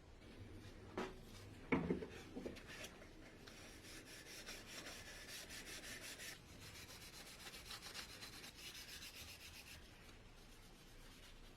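Hand sanding: a few knocks about one to two seconds in, then a steady run of quick back-and-forth rubbing strokes.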